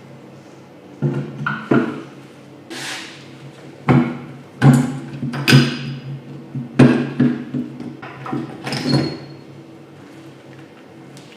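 Irregular metallic knocks and clanks of tools and engine parts being handled during work on a Honda CG125 engine, about a dozen of them between a second in and near the end, some ringing briefly, over a steady low hum.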